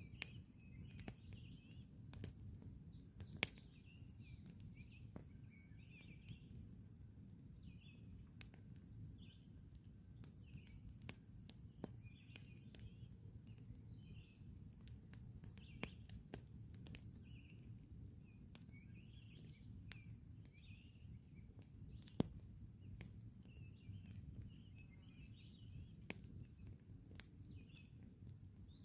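Campfire crackling: irregular sharp pops and snaps over a low steady rumble, with two louder pops, one about three seconds in and one a little past twenty seconds. Small birds chirp in short bursts throughout.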